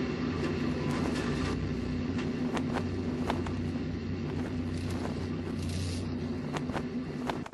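Vehicle running with a steady low hum and scattered sharp clicks and knocks.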